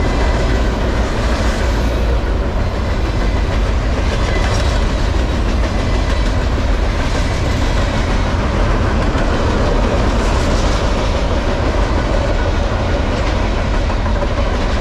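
Freight train cars rolling past: a steady rumble and clatter of steel wheels on the rails from a long string of container flatcars.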